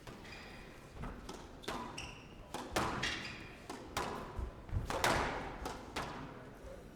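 Squash rally: the ball struck by rackets and smacking the court walls, a sharp hit every half second to a second, with a few short shoe squeaks on the court floor.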